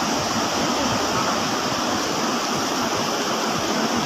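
Steady, even rush of heavy water from the flood.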